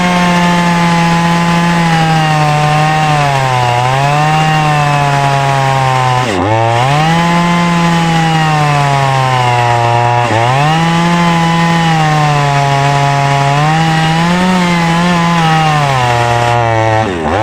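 Ogawa OG4812 mini two-stroke gasoline chainsaw at full throttle, cutting into coconut tree trunk. The engine note sags several times as the chain bogs in the wood and picks back up each time, then drops away as the throttle is let off near the end.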